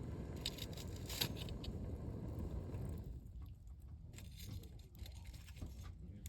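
Wood campfire crackling, with a cluster of sharp snaps about a second in and scattered softer crackles after, over a steady low rumble.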